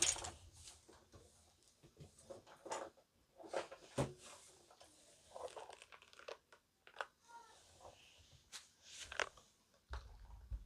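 Spiky rubber balls squeezed and rubbed in the hands, close-miked: irregular soft squishes and rubbery crackles, the loudest at the very start and about four seconds in.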